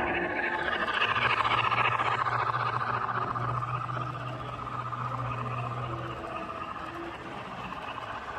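HO-scale model train running on the layout: a steady low motor hum with a whirring of wheels and gears that slowly fades, the hum stopping about six seconds in.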